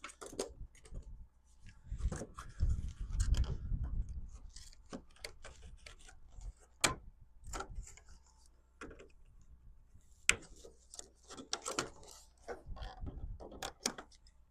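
Scattered sharp clicks and knocks of tools and materials being handled, with a low rumble a couple of seconds in.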